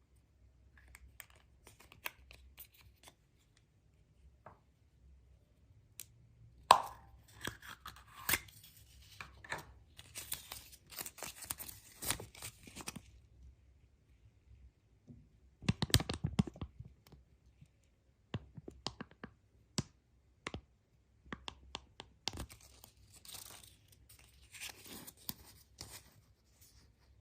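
Surprise eggs being unwrapped by hand: wrappers tearing and crinkling in irregular bursts, with scattered clicks and taps and one sharp snap about seven seconds in.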